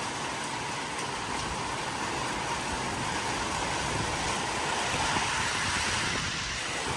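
Squall-line wind gusting hard with rain, a steady rushing noise that grows slightly louder toward the end.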